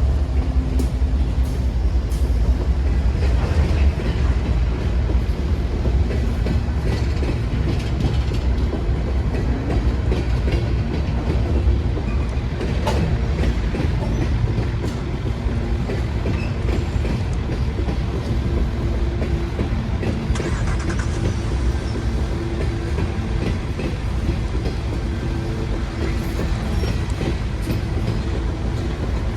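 Train running: a steady low rumble with occasional clicks of wheels over the rails.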